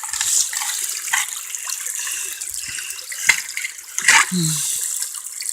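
Steady rush of flowing stream water. There is a sharp click a little over three seconds in and a brief voice about a second later.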